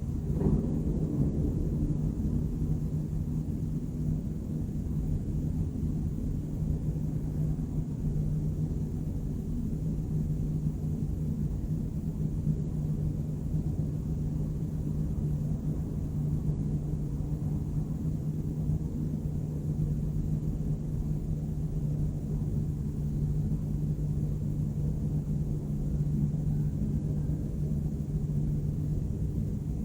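Night-time city ambience: a steady low rumble of distant urban noise with a constant low hum under it.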